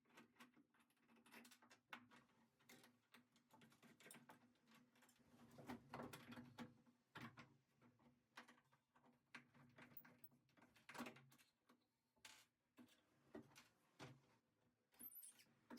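Faint, irregular knocks and clicks of hand work taking apart a boat's wooden dashboard, over a low steady hum.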